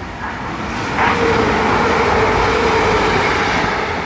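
TransPennine Express Class 185 diesel multiple unit running through the station without stopping. A rush of train noise builds and becomes loud about a second in, then holds steady with a tone underneath.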